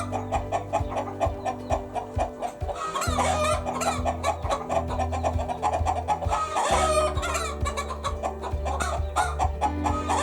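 Chickens clucking in quick, repeated calls over steady background music, with a longer call twice, about three seconds in and again past the middle.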